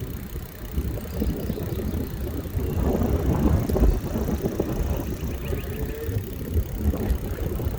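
Ride noise from a bicycle moving along a street: wind rumbling on the microphone together with tyre and frame noise, swelling briefly about three seconds in.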